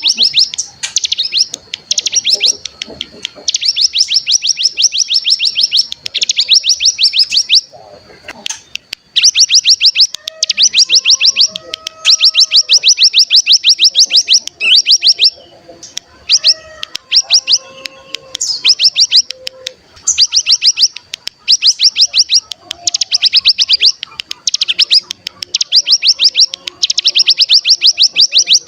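Ciblek gunung (a prinia) singing its rapid rattling trill, the 'ngebren' song, in repeated bursts of one to two seconds with short breaks, including a pause about eight seconds in. Fainter, lower chirps sound underneath.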